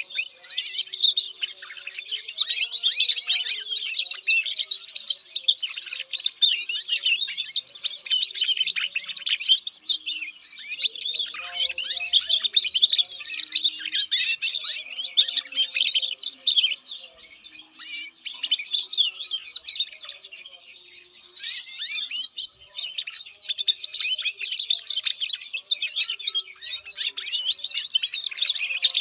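Domestic canary singing long, rapid, warbling trill phrases, one after another with brief pauses between.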